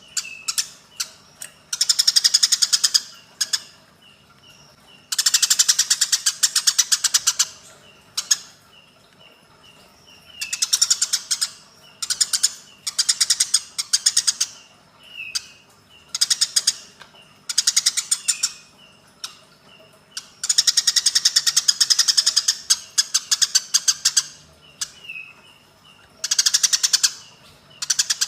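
Eurasian tree sparrows giving harsh, rapid chattering calls in repeated bursts of one to three seconds, with single chirps in between: the agitated calls of sparrows fighting.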